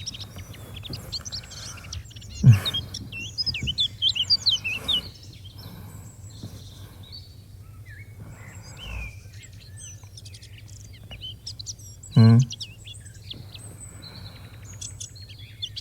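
Birds chirping, with a flurry of chirps about two to five seconds in and scattered chirps after. A short voice sound cuts in twice, near the start and about twelve seconds in.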